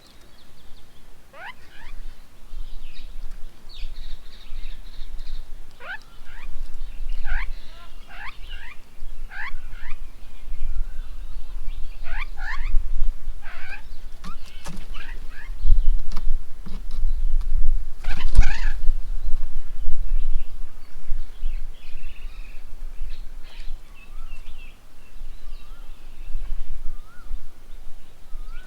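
Birds at a feeding table calling, with many short chirps and whistled notes that sweep up and down, busiest in the first half. A low rumble runs underneath, and there is a sharp click about two-thirds of the way through.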